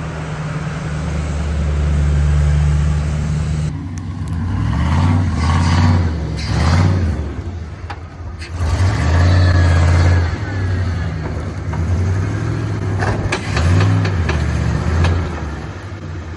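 A motor vehicle engine running, its pitch rising and falling in several uneven spells of revving.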